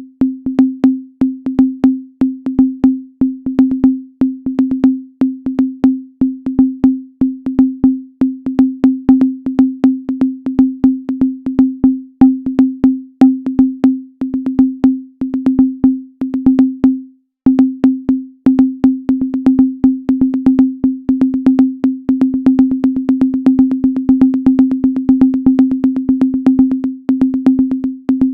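Minimal electronic music built from a low sine-wave tone pulsing in a rapid, stuttering rhythm, each pulse edged by a sharp click, with faint higher blips. The tone drops out briefly a little past halfway, then comes back.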